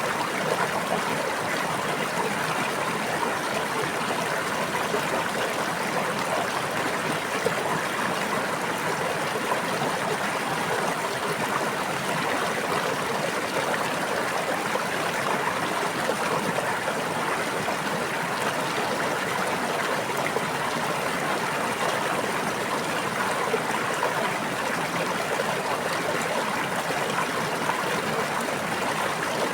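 Stream water running and babbling steadily, an even rush with no breaks or changes.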